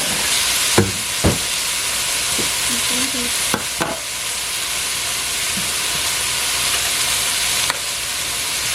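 Sliced okra frying in vegetable oil in a pot: a steady sizzle on low heat, with a few short knocks of a spoon against the pot as the okra is turned.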